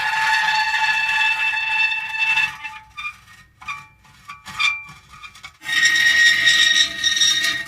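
Metal creaking: one long, steady-pitched squealing creak, then a few short squeaks, then another long creak starting about two-thirds of the way in.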